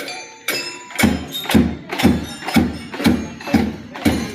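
School marching band drums beating a steady march rhythm, about two strikes a second, with high ringing tones near the start.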